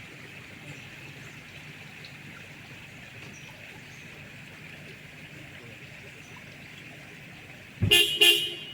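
River water running steadily, with a sudden loud burst of noise close to the end.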